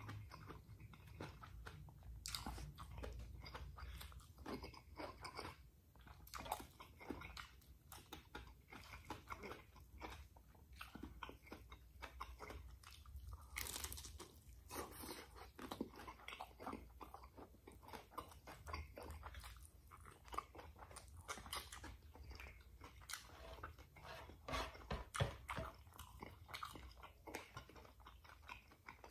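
A person chewing and crunching food, with many short, irregular mouth clicks and smacks.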